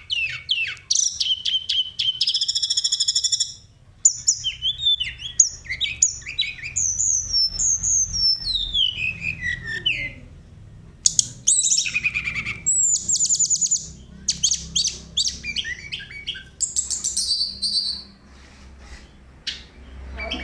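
Tledekan songbird singing continuously in a lively, varied song: fast rolling trills and chattering runs mixed with clear whistled phrases that slide down in pitch. This is the full 'gacor' song that keepers use to spur other birds to sing.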